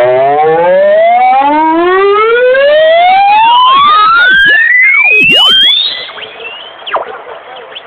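A paredão car sound system's loudspeaker wall playing one very loud, distorted tone that sweeps steadily upward in pitch from low to high. It cuts off about six seconds in.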